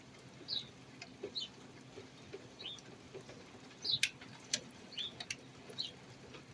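Small songbird at a nesting birdhouse, calling with short high chirps, each a quick downward slide, about once a second. Two sharp clicks sound about four seconds in.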